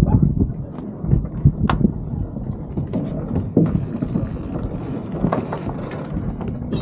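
Wind rumbling on the microphone aboard a small sailboat, with scattered knocks and clicks of deck gear, one sharp click about a second and a half in, and patches of hiss later on.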